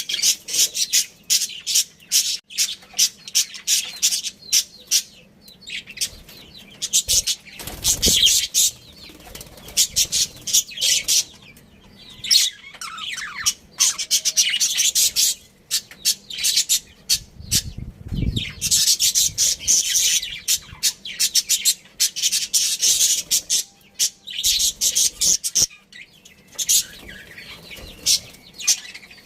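Budgerigars chirping and chattering in rapid bursts of high, scratchy notes, with a couple of low thumps about eight and eighteen seconds in.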